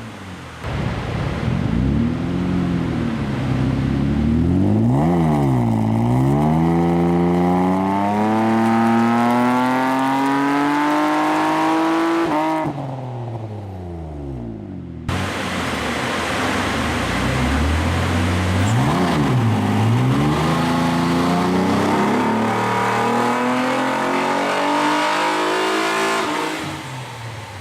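A Mitsubishi Eclipse's 3.8-litre V6 breathes through an aftermarket catback exhaust during dyno pulls. It is revved with quick up-and-down swings, then the revs climb steadily under load and drop away abruptly when the throttle closes. The pull happens twice.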